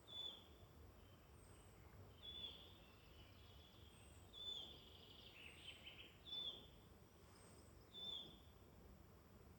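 Faint woodland birdsong: one bird repeats a short, high, slightly falling note about every two seconds, and another bird gives a brief call a little past the middle, over a faint steady background hiss.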